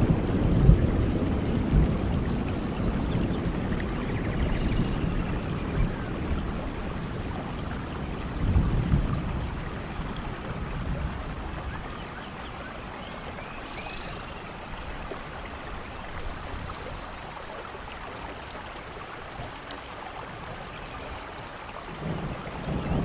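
Steady rainfall with rolling thunder: a rumble fades away over the first few seconds, a short one comes about eight or nine seconds in, and another builds near the end.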